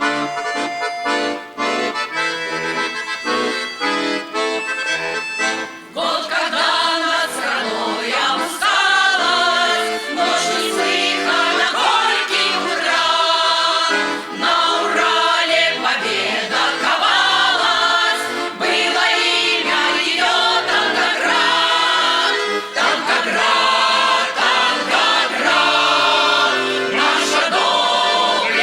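An accordion plays an introduction; about six seconds in, voices begin singing a song over the accordion accompaniment.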